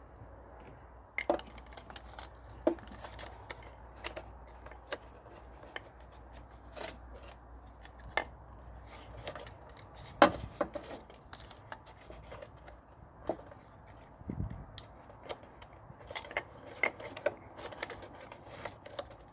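Irregular clicks, taps and knocks of parts being handled as ignition coil packs and their plug leads are fitted back onto an engine, with one louder knock about halfway through.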